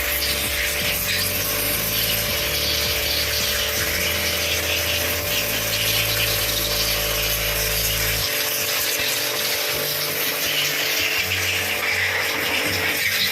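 Steady, continuous machine noise with a hiss, like a power tool or motor running without pause.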